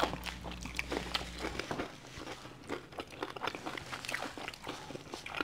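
Close-miked eating: biting into and chewing crispy fried food, with many small irregular crunches and mouth clicks.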